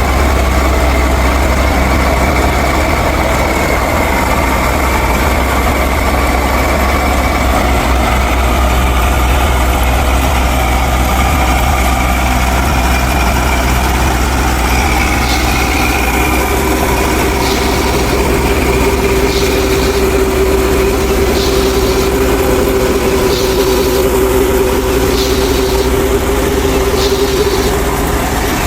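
A machine motor running steadily with a low drone, as when the mini tractor drives the wheat thresher. About halfway through a steady hum joins in, with a faint tick about once a second.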